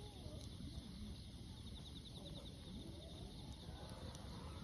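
Faint outdoor ambience: a steady low rumble with scattered bird calls, including a brief rapid high trill about two seconds in.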